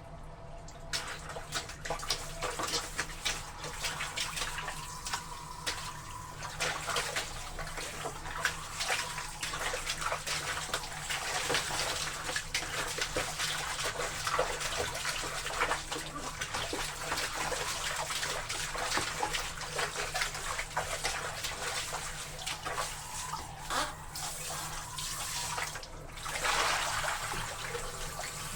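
Water sloshing and splashing in a washtub as laundry is washed in it, with many small splashes and a louder gush of water near the end.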